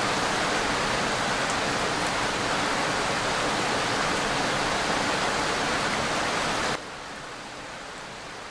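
Rain sound effect: a steady, even hiss of heavy rainfall that drops suddenly to a softer level near the end.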